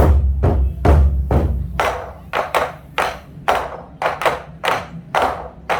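Korean buk drum ensemble playing. Deep drum strikes boom for about the first two seconds, then drop out, leaving lighter, sharper strikes in a galloping pattern of quick pairs, meant to evoke horses' hooves.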